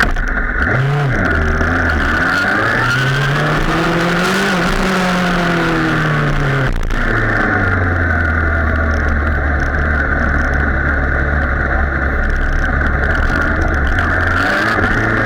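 Sportbike engine running, its revs climbing steadily for a few seconds and then falling away, then holding steady at a lower pitch.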